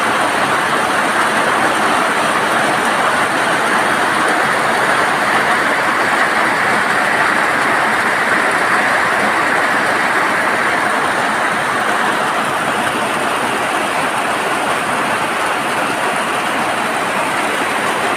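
Heavy rain pouring down in a steady, dense hiss that holds at a constant level.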